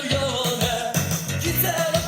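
Pop song with a singer and a steady bass beat, played back on a Sanyo FSP-V721 car stereo to show how it sounds.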